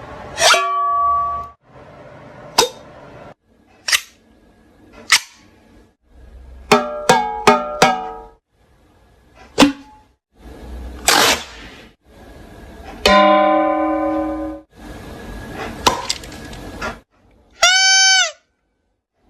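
A quick series of short, unrelated sound snippets cut one after another, each stopping abruptly: sharp clicks and knocks, a run of quick plinking notes, a ringing tone that fades out, and near the end a short tone that rises and falls.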